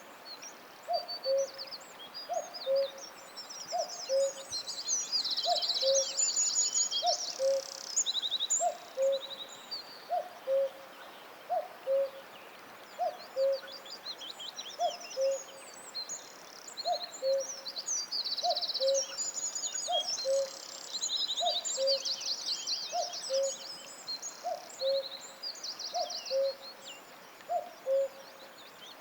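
Forest birdsong: one bird repeats a low two-note call, the second note lower, about every second and a half. Above it, small songbirds sing in quick trills and chirps in two long bouts, with a lull in between.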